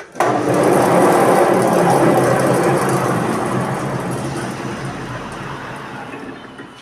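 A loud machine starts abruptly and runs with a steady low hum and a dense noisy whirr, its level slowly fading over the following several seconds.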